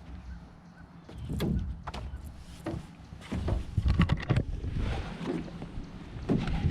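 Irregular knocks and thumps of gear being handled aboard a small fishing boat, clustered and loudest around the middle. A steady low hum fades out about a second in.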